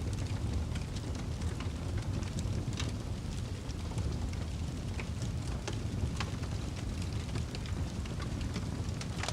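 Wood fire crackling in a fireplace: irregular sharp pops and snaps, a few each second, over a steady low rumble.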